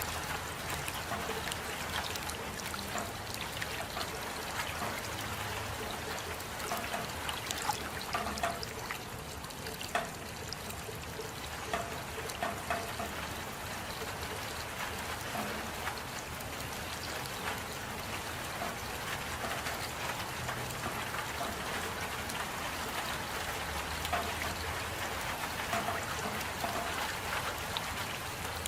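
Steady rain: an even hiss of rainfall with trickling water and many scattered drips ticking through it.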